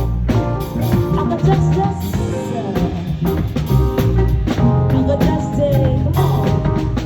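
A live band playing with drum kit, bass and other instruments, and a voice singing a melody.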